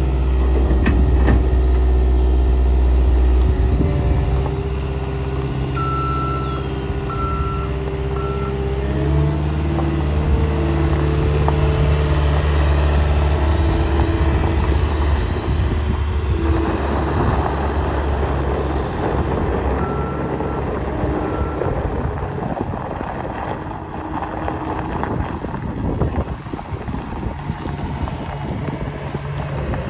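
Caterpillar skid steer's diesel engine running and working, its note shifting as the load and speed change. Its backup alarm beeps in short runs, four beeps several seconds in and two more about two-thirds of the way through.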